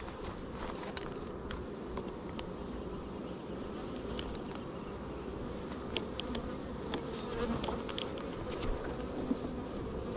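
Honeybees buzzing steadily around an opened hive, a dense continuous hum, with scattered light clicks over it.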